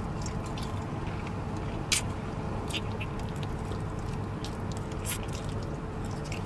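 Close-up mouth sounds of a man chewing barbecue ribs, with several sharp wet smacks, the loudest about two seconds in and again about five seconds in, over a steady low hum.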